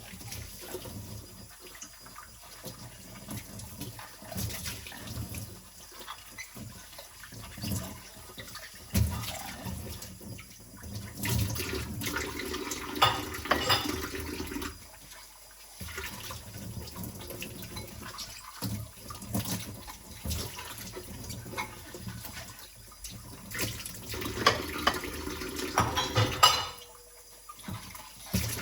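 Dishes being washed by hand in a kitchen sink: water running and splashing from the tap on and off, with scattered knocks and clinks of dishes and utensils.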